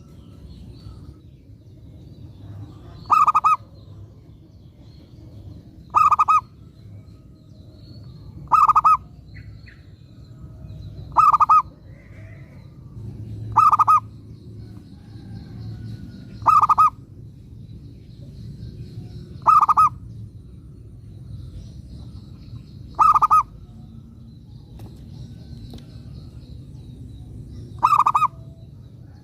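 Zebra dove (perkutut) calling: short cooing calls repeated about every three seconds, nine in all, over a faint low background noise.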